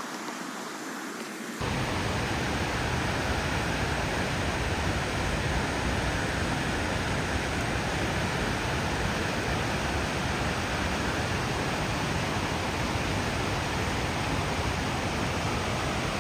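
Steady rushing roar of a waterfall, which jumps abruptly louder and fuller about a second and a half in and then holds even.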